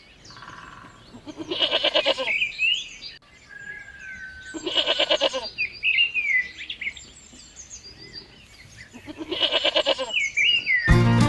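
A goat bleating three times, each bleat about a second long and wavering, with short bird chirps in between.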